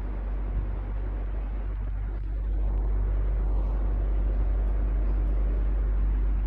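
Electric fan running steadily: a low motor hum under an even rush of air, which grows slightly louder about halfway through.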